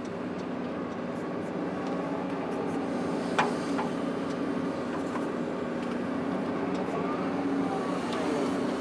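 Heavy machine's diesel engine running steadily, with one sharp click about three and a half seconds in.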